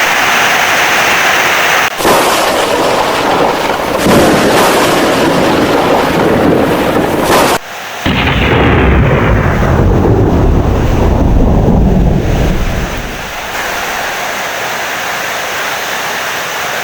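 Thunderstorm: heavy rain with thunder rumbling. The sound changes abruptly a few times, and a deep rumble of thunder rises about halfway through, then fades into steadier rain near the end.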